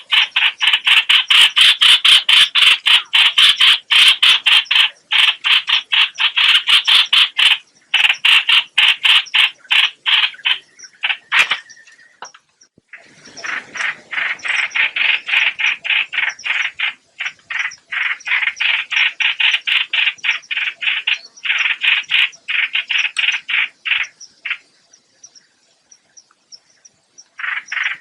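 Recorded lure call of the hoạch hoạch bird: long runs of fast, short, harsh repeated notes, broken by brief gaps and a longer pause about halfway through.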